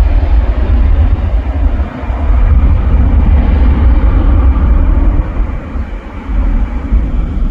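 Jet airliner engines roaring at takeoff power, a continuous loud rumble that eases slightly after about five seconds, with heavy low buffeting from wind on the microphone.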